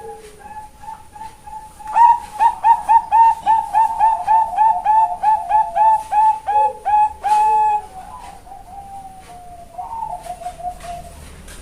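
Female zebra dove of the Thai-bred Bangkok line (perkutut bangkok) cooing: a fast run of short, loud, clipped notes, about three to four a second, lasting several seconds, then trailing off into softer notes. Fainter, lower coos of other doves sound in the background.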